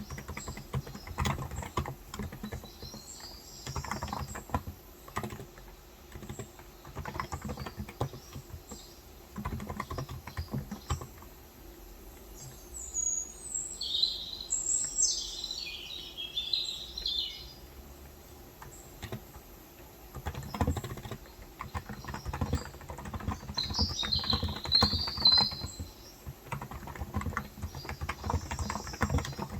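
Typing on a Cox Endeavour electrostatic-capacitive (Topre-style) keyboard with 35 g switches, in runs of quick keystrokes broken by short pauses. Small birds chirp in the background, most strongly about halfway through.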